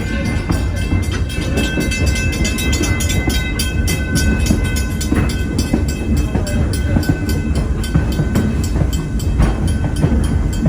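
A steam-hauled passenger train heard from aboard a coach: a steady low rumble of the running gear, with fast, even clattering and a faint, steady high squeal.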